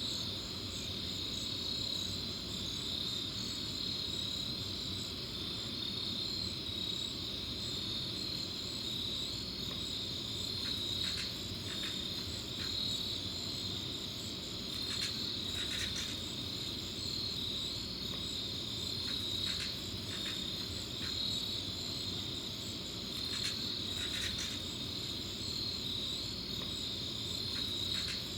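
Crickets chirping steadily at night over a low background rumble. Short bursts of a separate unidentified clicking sound come and go, in clusters from about a third of the way in to near the end.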